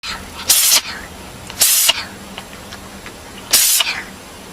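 A cat hissing in three short, sharp bursts, spaced a second or two apart.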